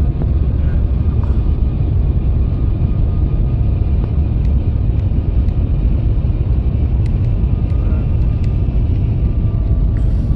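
Steady low rumble of engine and air noise inside a private jet's cabin in flight.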